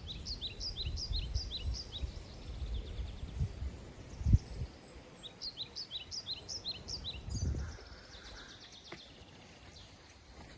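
A woodland songbird singing two phrases, each a quick run of high, down-slurred notes, the first at the start and the second about five seconds in. Under it runs a low rumble, with a single thump about four seconds in.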